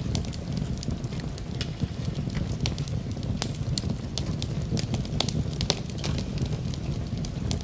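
Wood fire crackling in a fireplace: frequent irregular sharp snaps and pops over a steady low rumble of burning.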